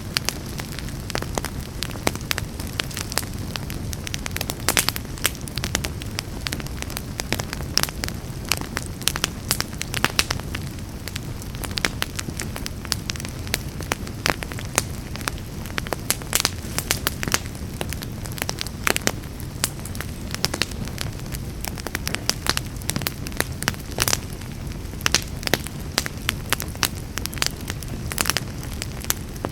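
Fire burning in a fireplace: a steady low rumble of flames, with frequent sharp crackles and pops at irregular intervals.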